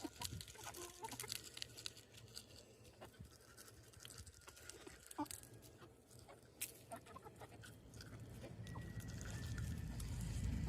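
Silkie chicks pecking at treats: faint, scattered small clicks and taps, with a few short calls. A low rumble builds in near the end.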